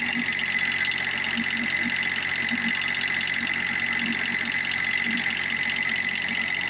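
John Deere F935 front mower's engine running steadily just after a cold start, with a steady high-pitched tone over it.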